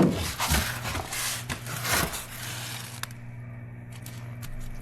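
Handling noise: rustling and scraping with a few light knocks for about three seconds, then quieter, over a steady low hum.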